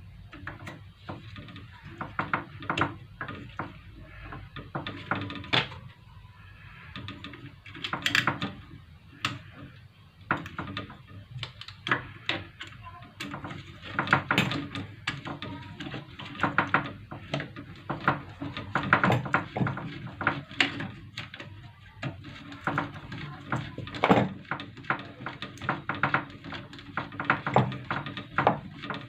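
Irregular clicks, taps and knocks of tools and small parts being handled while a component is fitted into a CRT TV's circuit board.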